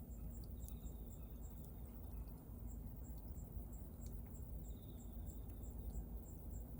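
Wood bonfire burning with a low rumble and a few sharp crackles. An insect chirps steadily at about three chirps a second, with a short buzzy trill twice.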